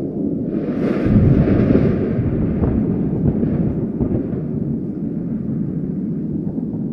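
A thunderclap breaks about a second in and rolls on as a rumble, slowly fading over the next few seconds, over a steady low wind.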